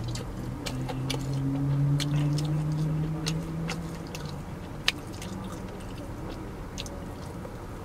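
Close-up chewing and biting of crispy fried chicken, with sharp crunches scattered throughout and one louder crack about five seconds in. A low steady hum, rising slightly in pitch, runs through the first half and stops about four seconds in.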